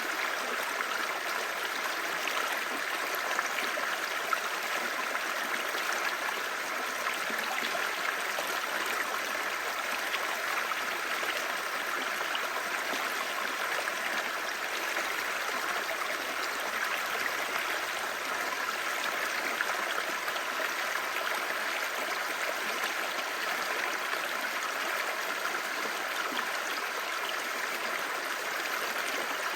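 Clear stream babbling steadily, an even rushing of water with little low rumble.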